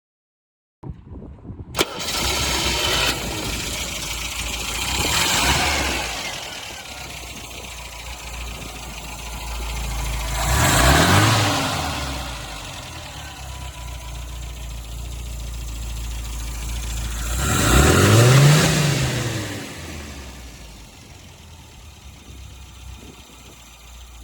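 1976 MGB's four-cylinder engine with long-tube headers starting and catching, then running and revved three times, each rev rising and falling back, before settling to a quieter idle.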